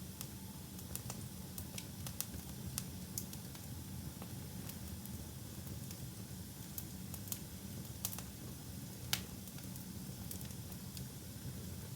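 Wood fire burning in a fireplace, with irregular sharp crackles and pops over a steady low hiss of the flames; the loudest pop comes about nine seconds in.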